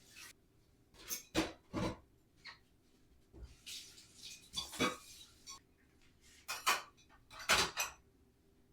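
Dishes and cutlery clattering as they are handled and set down during kitchen cleaning: a string of short, irregular clinks and knocks, several coming in quick pairs.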